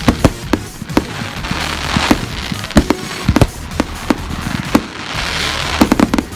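Fireworks display: a run of sharp bangs and pops with crackling hiss swelling about two seconds in and again near five seconds, then a quick cluster of bangs near the end.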